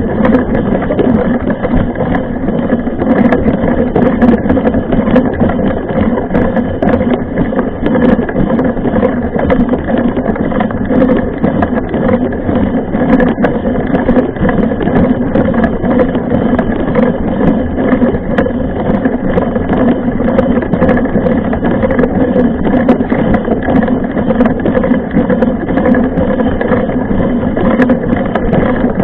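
Muffled riding noise from a mountain bike on a trail: a loud, steady rumble of wind and tyres with frequent small rattling clicks.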